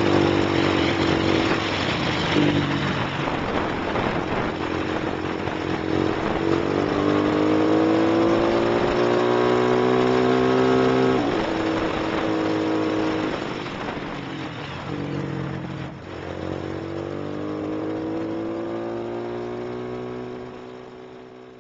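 Lifan LF200-B motorcycle with an aftermarket Iridium exhaust accelerating, its note rising through the revs and dropping sharply at a gear change about halfway, then climbing again. The sound grows fainter over the last few seconds.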